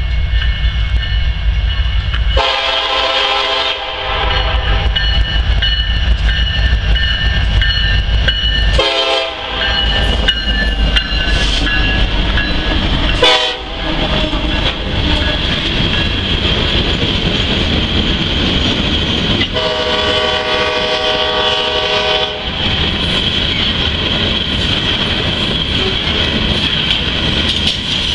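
Union Pacific diesel freight locomotives passing close by, sounding the air horn four times (long, short, short, then a long blast) over the steady low rumble of the engines. The covered hopper cars follow with wheels clacking over the rail joints.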